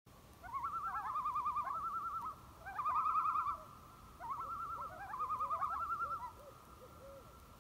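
Common loons giving tremolo calls: fast, wavering, laughing notes in four bouts, with short rising notes between them.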